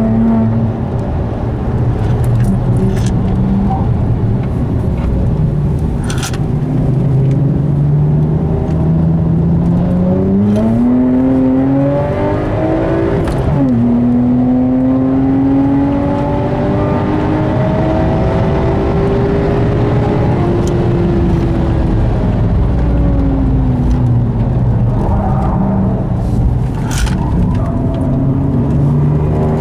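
Devotec-tuned BMW 1M's twin-turbo straight-six heard from inside the cabin at track speed. The engine note climbs and falls with throttle and gear changes, with a sharp drop in pitch at a shift about thirteen seconds in, over steady tyre and road noise. A few brief sharp clicks are heard.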